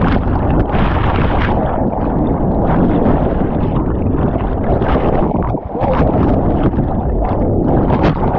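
Whitewater of a Class IV rapid rushing loudly and steadily, with short splashes breaking through throughout.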